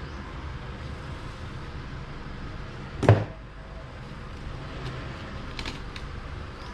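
A single sharp knock about three seconds in, followed by a few light clicks, over a steady background hum.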